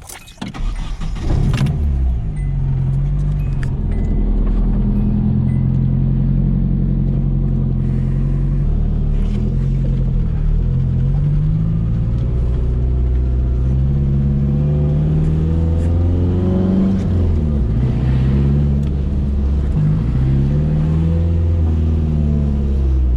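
Nissan 240SX drift car's engine being driven, its pitch climbing and then dropping several times as it revs up and shifts through the gears.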